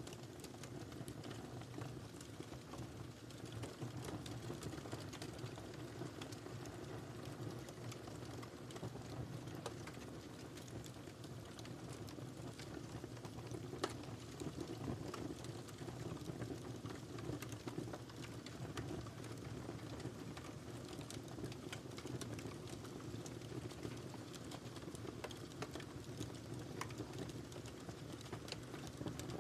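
Wood fire burning in a fireplace: a steady low rumble of flames with scattered small crackles and pops, one sharper pop about halfway through.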